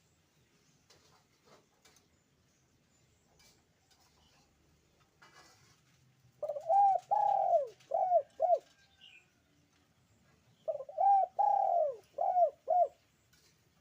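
Puter (Barbary dove) cooing twice. Each phrase is a short run of arched coos with a longer note in the middle, and the second phrase repeats the first.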